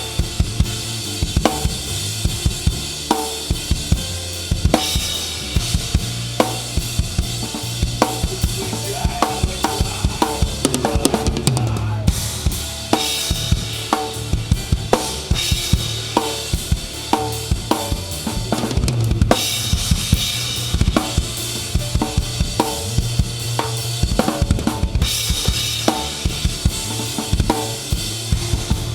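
Live rock drum kit played close up in an instrumental passage, with kick drum, snare and cymbals driving a fast, steady beat over the rest of the band. The cymbal wash drops out and comes back several times.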